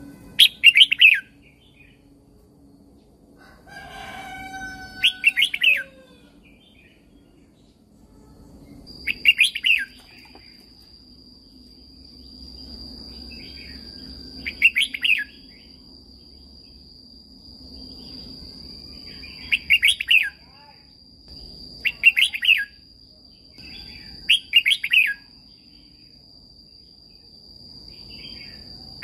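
Red-whiskered bulbul singing short, bright warbling phrases of about a second each, repeated every few seconds. A steady thin high-pitched tone runs beneath the song from about a third of the way in.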